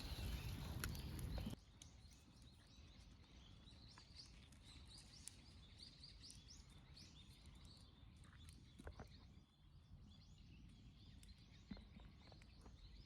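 Faint chirping of small birds: many short, high, rising calls over a quiet outdoor background. A burst of rustling noise in the first second and a half cuts off suddenly.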